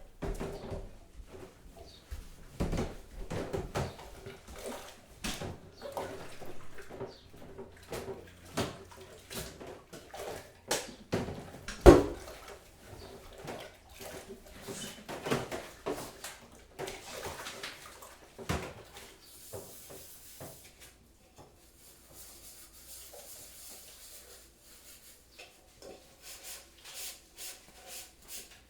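Kitchen work: irregular clinks and knocks of crockery and utensils being handled, with one sharp knock about twelve seconds in. The knocks thin out in the last third, where a soft hiss like running or poured water comes and goes.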